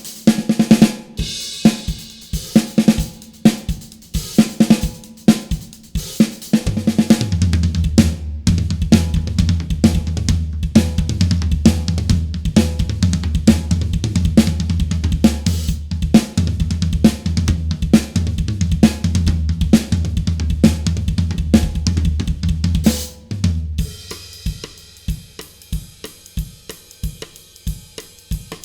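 Acoustic drum kit played in a groove, heard through close drum mics with EQ: punchy kick, snare, hi-hat and cymbals. From about seven seconds in until near the end, a sustained low bass part plays underneath, then the drums carry on alone.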